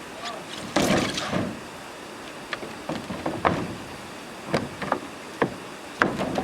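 Irregular knocks and clatter of wooden pieces being handled and struck, a dozen or so sharp strikes at uneven spacing, some in quick clusters.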